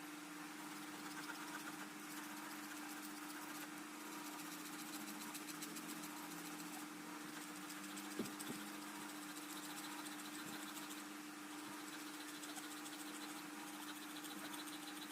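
A small motor runs steadily with a constant hum. A single sharp click comes about eight seconds in.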